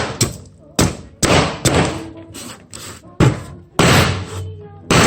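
A homemade flat-steel firewood knife striking firewood again and again: about nine hard knocks at an uneven pace, each dying away quickly.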